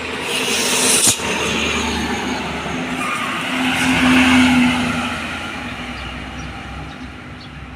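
A motor vehicle passing on a road, its engine note building to a peak about four seconds in and then fading away.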